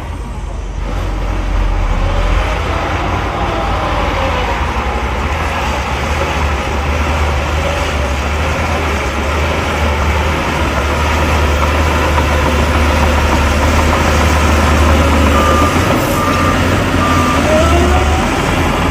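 Diesel engines of heavy earthmoving machines running with a steady low rumble, their pitch rising and falling as they rev. A reversing alarm beeps three times near the end.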